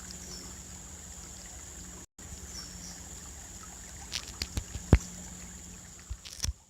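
Steady trickle of a shallow creek, with a few sharp knocks and clicks between about four and five seconds in, the loudest near five seconds, and a few more just before the sound cuts off.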